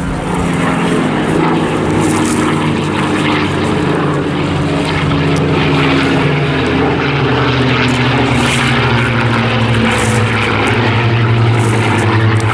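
Rolls-Royce Merlin V12 piston engines of propeller-driven warbird fighters flying past in a steady drone, growing a little stronger toward the end.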